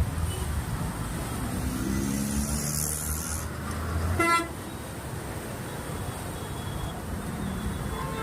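Road traffic in heavy rain: vehicle engines rumbling over a steady wash of noise, with a short car horn beep about four seconds in.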